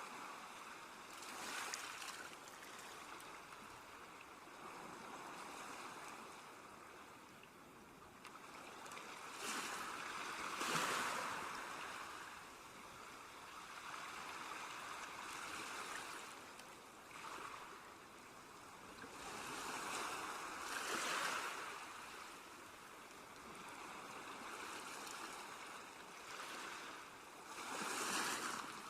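Sea waves washing ashore: a steady hiss of surf that swells into a louder rush of water every several seconds.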